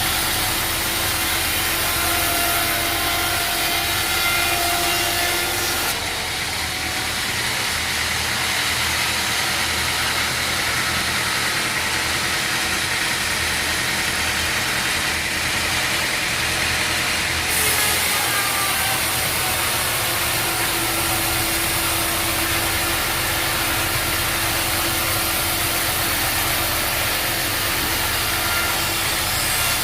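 Sawmill machinery running steadily with a constant motor hum, a saw cutting through wood.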